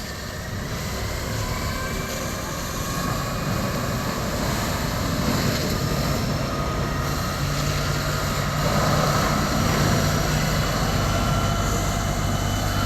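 A heavy engine running steadily and growing gradually louder, its low hum shifting pitch a couple of times.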